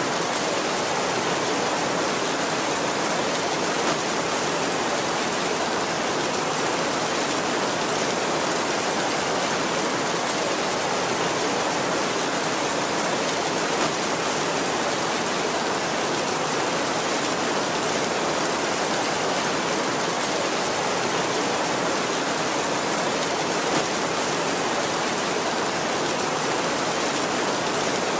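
Heavy rain falling steadily on a tin roof, an even, unbroken hiss of drops with no thunder.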